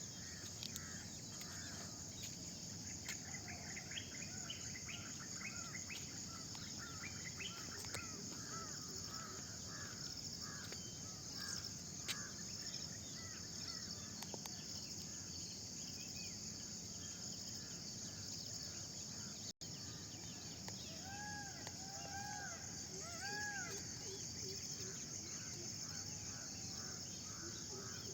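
Dawn chorus: a steady high insect trill, likely crickets, with several birds calling over it, quick runs of repeated notes in the first half and three arched, swooping calls about two-thirds of the way through. The sound drops out for an instant just before those calls.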